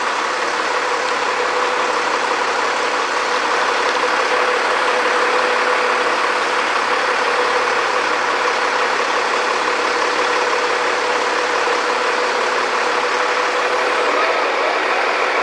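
Engine running steadily at idle, with a constant hum and no change in speed.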